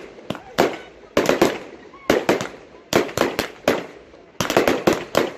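Fireworks display: a rapid, irregular string of sharp bangs, each with an echoing tail, crowding together about four seconds in.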